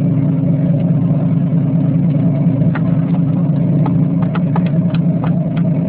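Boat engine running steadily, a constant low drone, with a few light ticks in the second half.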